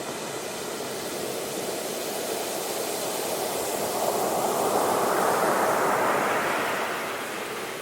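Ocean surf: a wave builds and rushes in, swelling to its loudest past the middle and easing off near the end.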